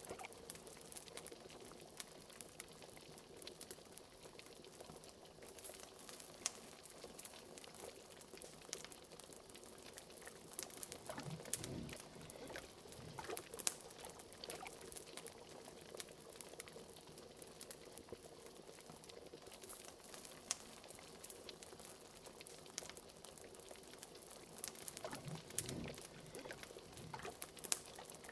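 Liquid bubbling steadily in a pot, with a couple of deeper gloops about twelve and twenty-six seconds in. Frequent small fire crackles and pops run through it, all at a quiet level.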